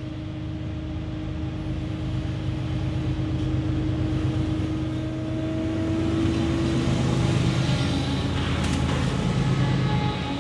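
BNSF diesel-electric freight locomotives approaching and passing close by: their low engine drone grows steadily louder, and a steady tone in it drops in pitch as the lead unit goes past. Wheel and rail clatter comes in near the end.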